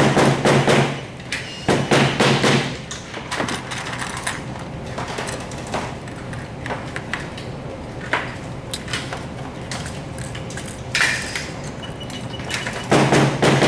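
Small parts being handled and fitted by hand, with repeated clicks and knocks. There are short bursts of a low hum, each about a second long: at the start, about two seconds in, and again near the end.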